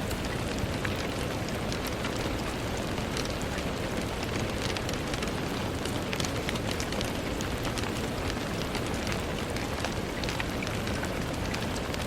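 Steady rain pattering on a window, a dense even hiss scattered with many small drop ticks.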